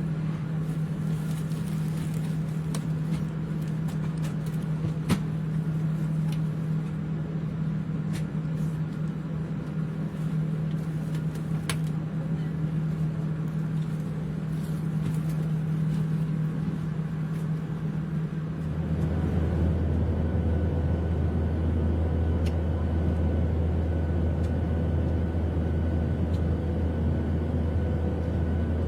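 Steady engine drone heard inside an airliner cabin. About eighteen seconds in it shifts to a deeper, louder drone. There are a few faint clicks.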